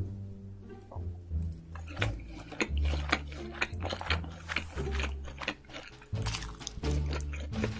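Close-miked eating of king crab: a quick run of sharp cracks and crunches of shell and chewing, starting about a second and a half in, over background music with a deep bassline.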